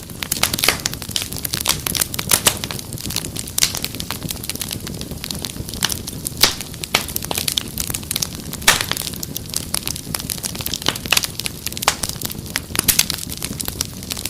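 Wood fire crackling, with frequent sharp pops and snaps over a steady low rumble; a couple of louder pops stand out about six and a half and nine seconds in.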